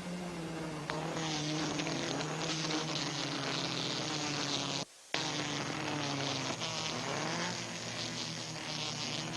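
Sports car engines racing at high revs, their pitch falling and rising as cars pass and shift through a corner. The sound cuts out completely for a moment about halfway through.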